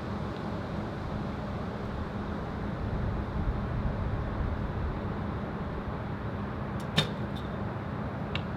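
Steady wind rumble on the microphone, with a single sharp snap about seven seconds in, just after a faint click: a recurve bow (Hoyt Epic riser) being shot.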